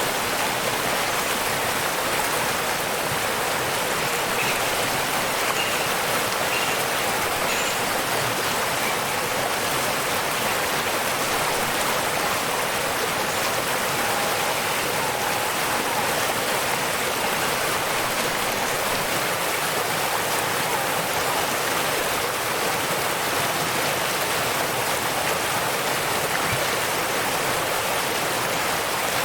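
Waterfall: steady, even rushing of falling water, with more hiss than rumble.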